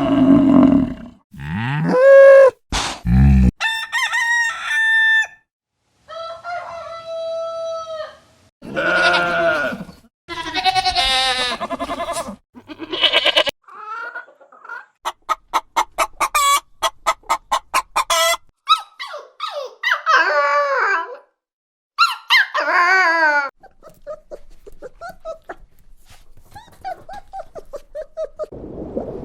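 Chickens clucking and a rooster crowing, as a series of separate calls broken by a couple of abrupt silent gaps, with a fast run of clucks in the middle.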